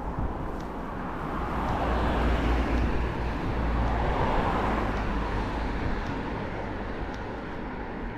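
A car passing on a nearby road: its tyre and engine noise swells over a couple of seconds and then fades, over a steady low rumble of wind on the microphone.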